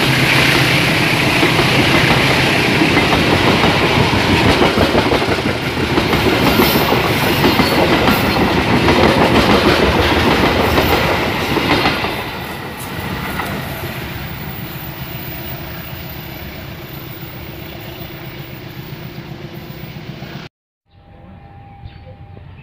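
Passenger train coaches passing close by on the track, loud for about twelve seconds and then fading as the rear of the train goes by. Near the end the sound cuts abruptly to a much quieter steady background.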